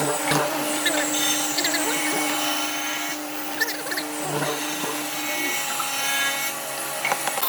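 A power tool running on wood, a steady machine hum with scraping and a few sharp clicks.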